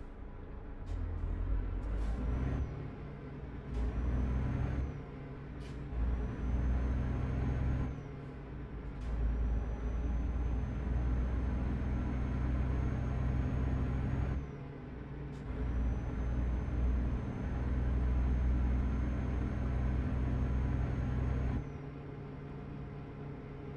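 Truck's diesel engine heard from inside the cab, pulling in stretches of a few seconds broken by brief drops, with sharp clicks at several of the breaks and a faint high whine rising during the loud stretches.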